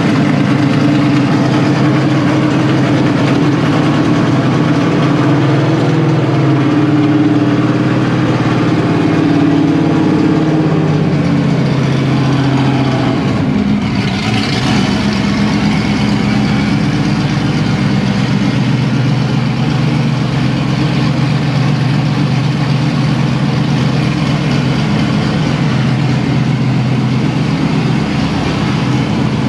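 Superbird tribute car's V8 engine running at a steady idle just after starting. About halfway through, its note shifts lower and then holds steady.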